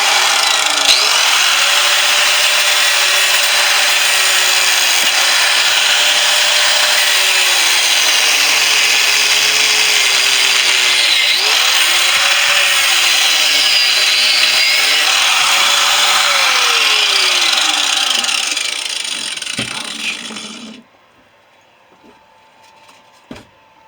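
Angle grinder cutting into the steel housing of a refrigerator compressor: a steady, loud grinding hiss with a whine that wavers up and down in pitch as the wheel bites. It eases off and stops about 21 seconds in.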